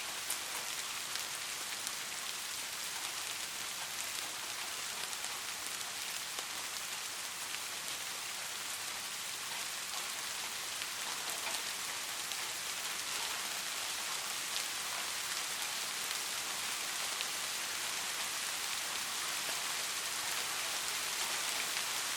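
Steady rainfall: a dense, even hiss of rain with scattered individual drop patters, no thunder.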